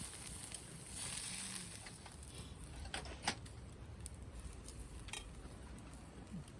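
Campfire cooking: a soft steady hiss with faint crackling, and a few sharp clicks about three seconds in, one of them the loudest sound.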